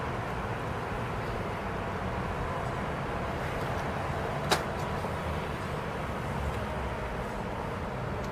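Steady low rumble of a car idling, heard from inside the cabin, with one sharp click about four and a half seconds in.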